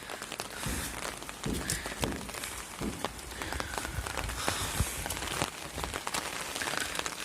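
Steady rain falling, with many small drop ticks and a few low thumps.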